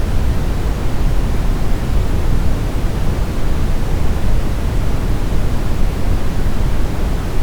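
Smoothed brown noise: a steady, deep rumbling hiss with most of its energy in the low end, unchanging throughout.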